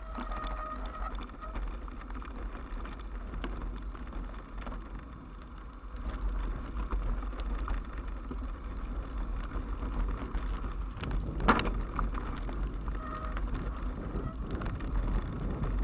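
Wind buffeting the microphone and rolling noise while riding an e-bike. There is a sharp knock about eleven seconds in.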